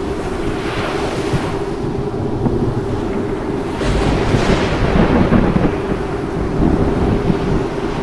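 Rolling thunder over steady rain, swelling loudest around the middle.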